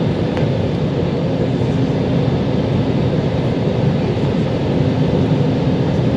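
Airbus A320 cabin noise: a steady, loud rumble of jet engines and airflow heard from inside the cabin, with no change or impact.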